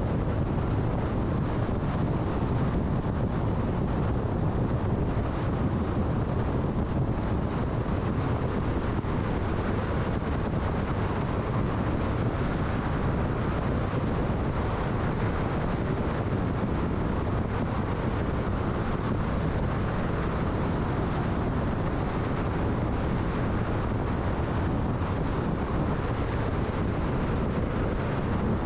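Steady road and wind noise of a car cruising at freeway speed: an even rush of tyres on pavement and air, with no changes.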